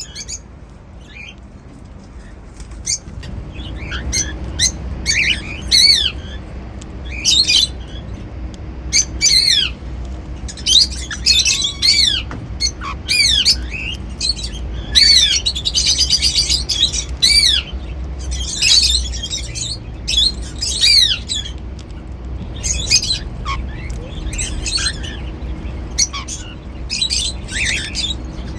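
Cockatiels chirping and whistling in quick rising and falling notes, with a fast rattling trill about halfway through.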